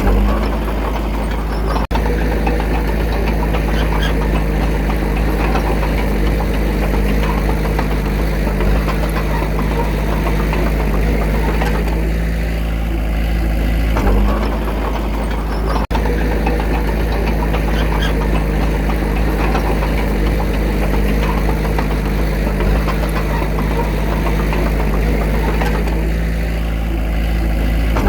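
Diesel engine of a small bulldozer running steadily with a low drone. Two brief dropouts about 2 and 16 seconds in.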